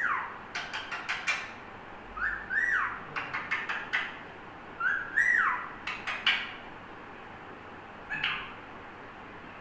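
Pet parrot whistling a short rising-then-falling phrase three times, with sharp clicks in between, then one shorter call near the end.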